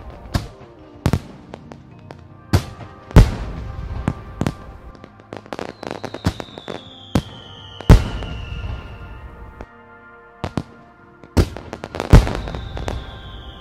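Distant firework display: aerial shells bang every second or so, with crackling between the bursts. Twice a long whistle falls slowly in pitch.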